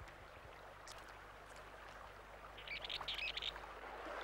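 A bird calls in a short run of quick, high chirps about two and a half seconds in, over a steady rush of shallow river water.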